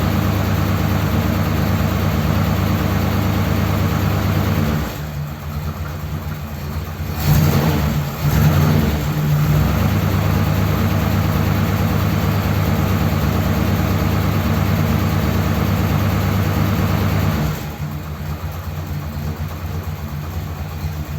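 Ford Thunderbird engine running after a long lay-up with nothing done to it. It idles a little rough and has no choke. There is a short rev about seven seconds in, and it settles to a quieter idle near the end.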